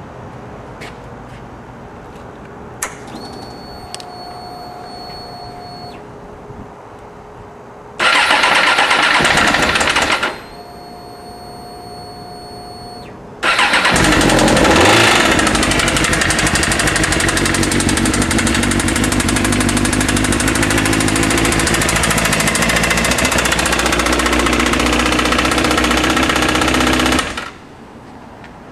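Suzuki GSX-R750 engine being started: a steady high whine, a two-second burst of cranking that does not catch, the whine again, then a second attempt that catches. The engine runs loudly for about thirteen seconds with a brief rise in revs just after it starts, then cuts off suddenly. It is running with a severe rod knock.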